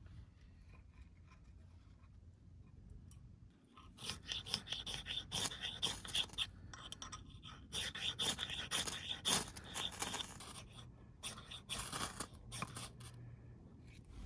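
Quick, irregular scraping and rubbing strokes, starting about four seconds in and running in uneven bursts until near the end.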